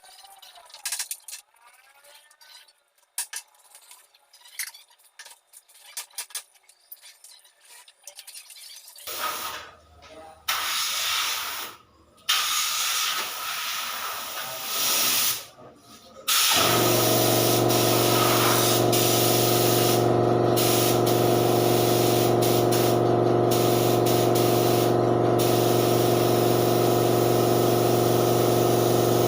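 Light clinks and taps, then short bursts of compressed-air hiss from a paint spray gun. A little past halfway an air compressor starts and runs steadily under the hiss, which breaks off briefly a few times as the trigger is released.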